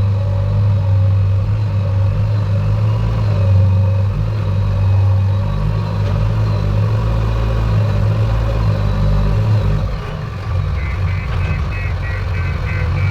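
Heavy diesel engine of earth-moving machinery running steadily with a deep, even hum. A rapid series of short high beeps starts near the end.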